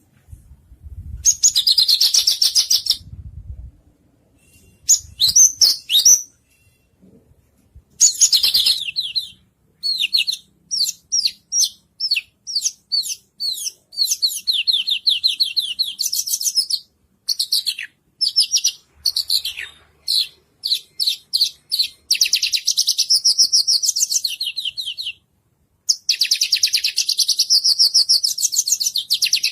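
White-rumped shama (murai batu) song: loud phrases of fast, high chattering trills, sweeping whistles and rapidly repeated notes broken by short pauses, running into long unbroken trills in the last several seconds.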